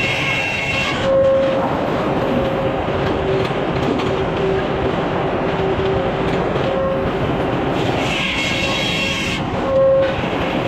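Sawmill machinery running steadily and loudly, with a higher-pitched whine rising above it during the first second and again near the end.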